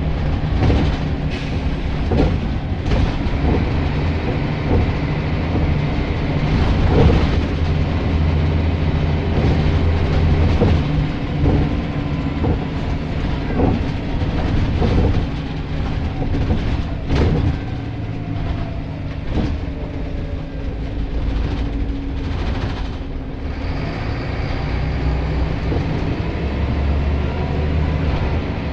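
Scania L94 bus heard from on board: the diesel engine runs steadily under the body rattles, with scattered knocks and clatters. About two-thirds through, a faint whine falls in pitch as the bus slows.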